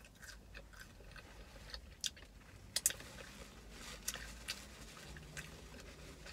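Close-up mouth sounds of someone chewing a fried chicken sandwich: soft, irregular smacks and clicks, the loudest a little under three seconds in.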